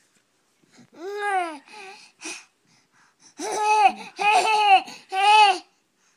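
A baby vocalising in wordless babbling squeals. Each call rises and falls in pitch: one a second in, two short ones after it, then three loud ones in quick succession near the end.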